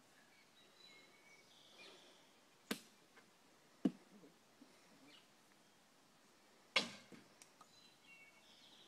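Three sharp knocks, the last the loudest, with faint bird chirps in the background.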